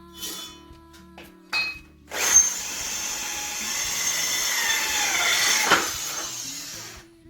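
Power drill boring a hole for about five seconds, starting sharply about two seconds in, with a falling pitch near the end before it stops. Background music runs faintly underneath.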